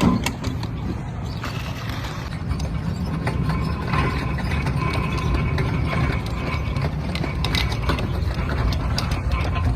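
Box truck running, a steady low engine rumble with irregular rattling and clicking from the truck's body and cab.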